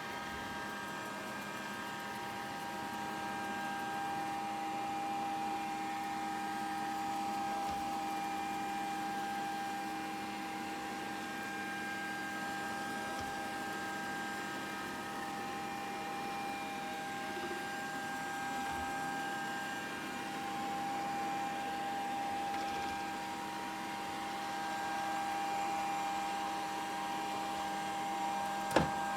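Grundig VCR 2131 robot vacuum running, a steady motor whine over an even hiss of suction. There is one sharp knock near the end.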